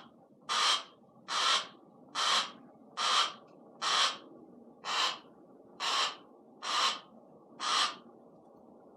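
A Harris's hawk repeating a harsh, rasping squawk about once a second, nine calls in all, each brief. These are her loud demand calls, which her keeper reads as her wanting to be taken out to fly and hunt.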